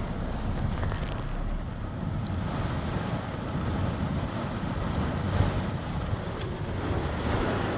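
Steady noise of a heavy rainstorm, with wind rumbling on the microphone.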